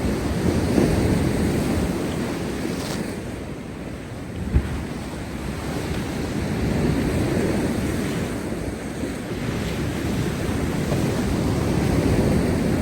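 Heavy storm-driven sea waves breaking on rocks, a continuous surging wash that swells and ebbs with each wave, with wind buffeting the microphone. A brief low thump about a third of the way in.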